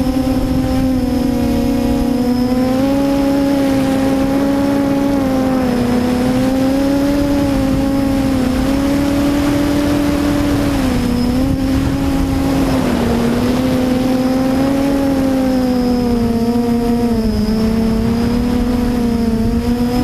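QAV400 quadcopter's brushless motors and propellers buzzing, the pitch wavering up and down as the throttle changes, over a low rumble.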